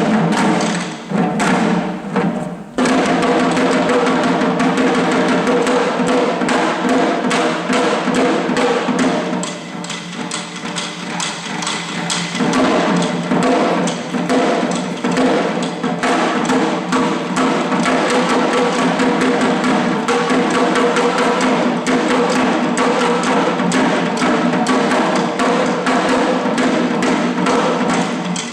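Shishi-odori deer-dance drums worn and beaten by the dancers, struck in a fast, steady rhythm, with steady held tones beneath the beats. The playing drops off briefly about three seconds in and goes quieter for a couple of seconds around the middle.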